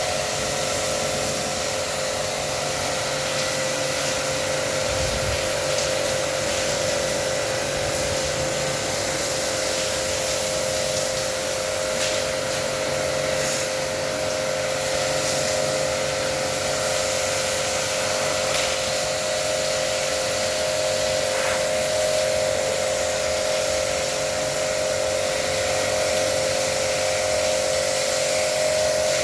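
Small electric water-jet pump running steadily with a constant hiss of spray and a steady whine, as used to jet-wash a split air conditioner.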